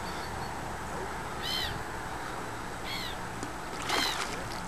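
A bird calling three times, short arched chirps about a second and a half apart. About four seconds in, a splash as a hooked carp thrashes at the surface.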